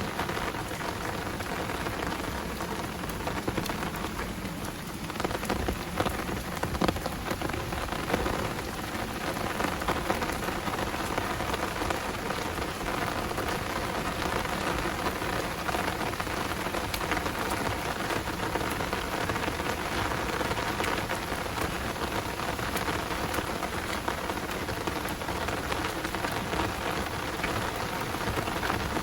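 Heavy downpour rain falling steadily, a dense even hiss of drops, with a few sharper, louder drop hits about five to ten seconds in.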